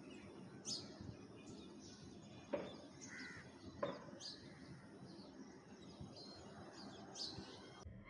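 Wild birds calling: short, high, falling chirps every second or so, with two louder, harsher calls about two and a half and four seconds in.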